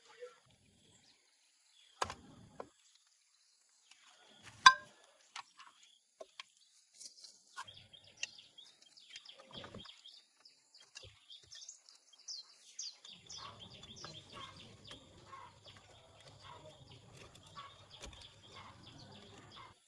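Scattered sharp knocks and clicks, one much louder about five seconds in, with birds chirping in the middle and a faint low hum near the end.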